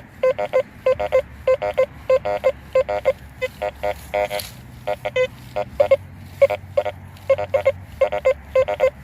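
Teknetics T2SE metal detector giving a rapid run of short beeps, several a second, as the coil is swept back and forth over a target. It is the mixed ferrous/non-ferrous signal of an iron object lying with a piece of zinc.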